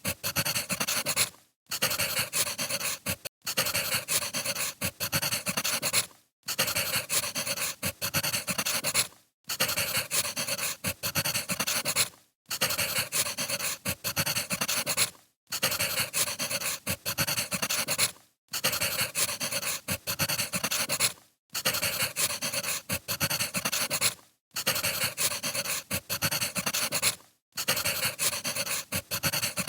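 Wood fire crackling and hissing, cutting out briefly about every three seconds.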